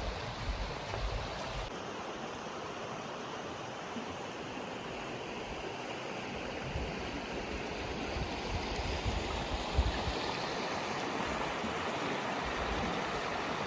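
Rushing water of river rapids: a steady, even roar that grows slightly louder, with scattered low thumps underneath.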